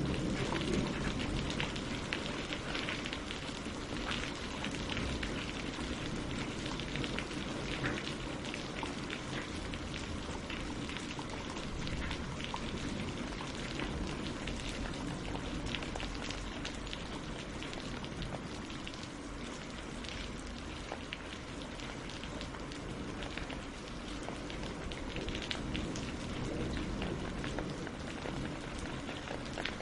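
Steady rain falling on leaves and on the surface of a lake, a continuous patter with many small drop ticks.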